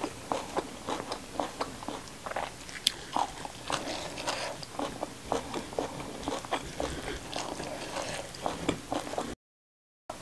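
Close-miked chewing of raw kenikir (cosmos) leaves and other fresh greens with rice: a dense, steady run of crisp crunches and wet chews. The sound cuts out for a moment near the end.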